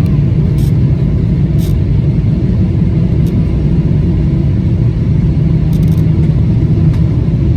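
Boeing 777-300ER airliner's steady low rumble during landing, with a few faint clicks.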